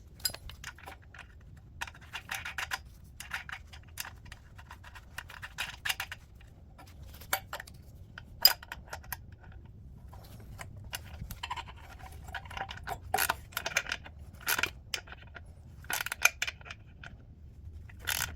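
Small metal parts and hand tools clicking, clinking and scraping in irregular bursts as exhaust studs and bolts are handled and threaded in.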